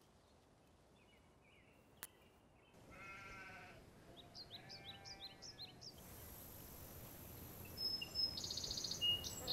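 An animal calling faintly twice, about three seconds in and again near the middle, with a single click before it.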